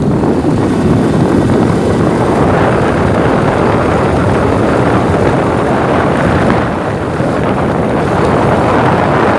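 Motorcycle underway on a street, its engine running under a steady rush of wind on the microphone, easing slightly for a moment about two-thirds of the way through.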